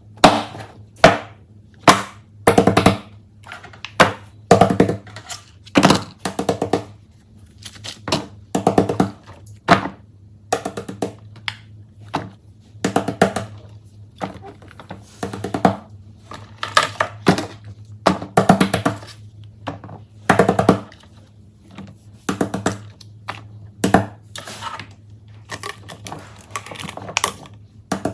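Plastic fidget toys being handled and set down, giving a run of sharp clicks, taps and knocks about once a second, some in quick clusters.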